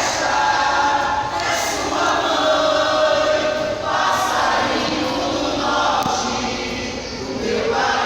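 A group of voices singing together in chorus, with held notes, in a sung number of a pássaro junino folk musical play.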